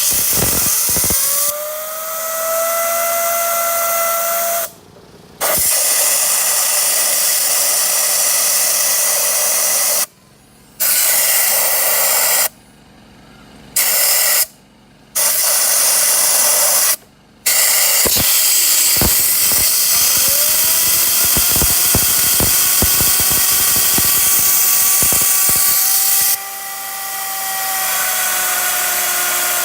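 Loose Mercedes Sprinter T1N turbocharger spun by a loud rushing blast of air: as the air comes on, the turbo spools up with a whistle that rises and then holds steady. The air cuts off abruptly several times, there is a run of sharp clicks in the middle stretch, and the whistle spools up again about two thirds of the way through.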